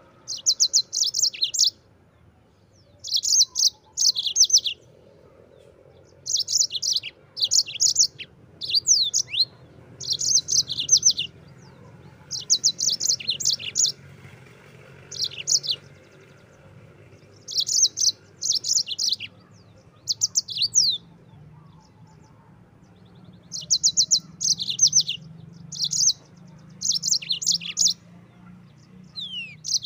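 Yellow-fronted canary (Mozambique canary) singing: short bursts of rapid, high trilled notes, often two in quick succession, repeated every second or two.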